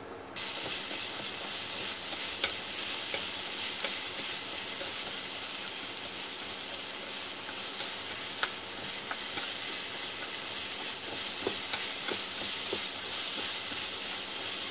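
Shredded jicama and wood ear mushrooms sizzling in oil in a frying pan as they are stir-fried over low-medium heat, with a steady hiss and scattered light clicks and scrapes of the spatula. The sizzle starts abruptly about half a second in.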